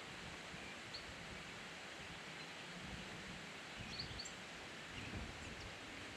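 Quiet outdoor ambience: a steady rustling hiss with uneven low wind rumbles, and a few brief high bird chirps about a second in and around four seconds in.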